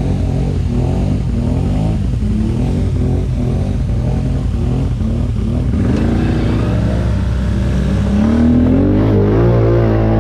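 ATV engine running under a rider's throttle. For the first half its pitch rises and falls about twice a second, then it climbs and holds a steadier, higher note near the end.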